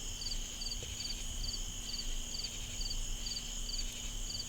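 Chorus of crickets and other night insects: a steady high-pitched trill, with one insect repeating a short triple-pulsed chirp about twice a second.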